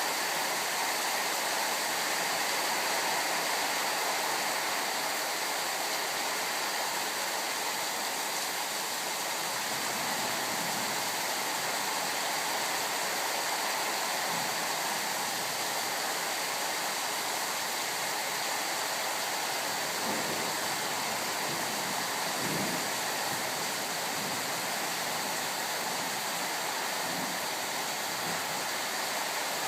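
Rain of a thunderstorm pouring down steadily, an even unbroken rush of noise with no clear thunderclap.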